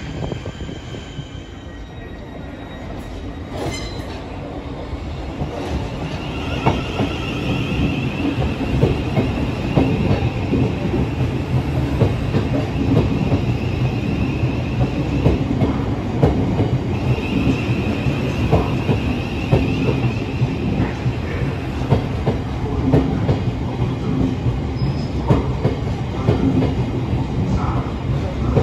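Thameslink Class 700 electric multiple unit rolling slowly along the platform, its wheels and bogies rumbling and clacking over rail joints. A high, steady wheel squeal sets in a few seconds in and comes and goes through the middle.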